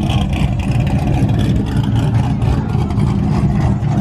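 Loud vehicle engine exhaust running, a steady deep rumble.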